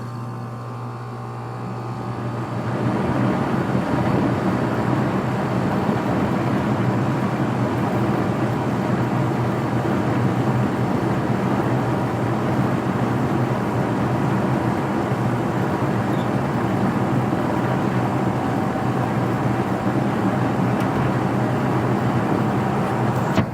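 2006 Rheem Classic central air conditioner condenser starting up: the compressor hums and the condenser fan spins up over the first few seconds, then the unit runs steadily with a loud rush of air over the hum.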